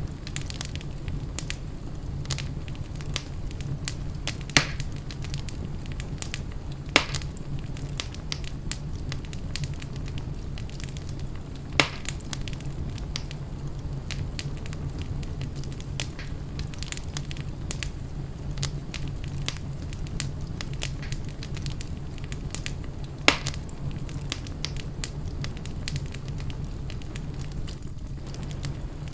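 Wood fire burning in a fireplace: a steady low rumble of flames with constant small crackles and a few sharper, louder pops of the burning logs.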